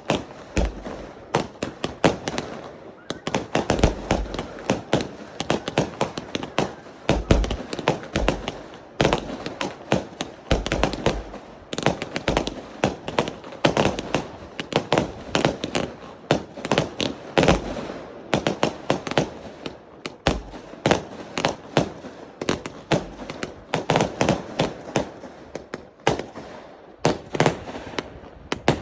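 Fireworks display: a continuous rapid volley of sharp bangs and crackles, several a second, with heavier low booms now and then.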